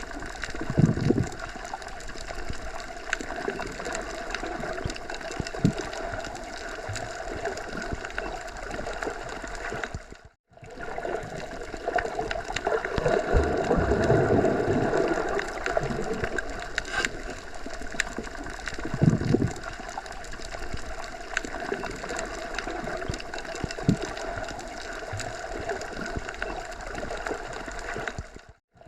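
Steady rushing outdoor nature ambience with faint scattered ticks, broken by two brief drops to silence, about ten seconds in and near the end.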